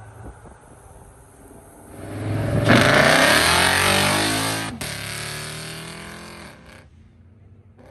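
A car accelerating hard as it leaves, engine revving up and getting loud, then breaking off sharply a little past the middle, as at a gear change, and fading away as it drives off.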